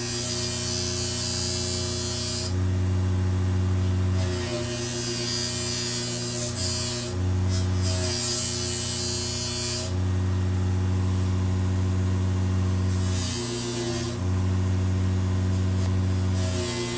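Small electric polishing machine spinning a polishing wheel with a steady motor hum. A knife blade is pressed to the wheel in stretches, adding a hiss that comes and goes several times.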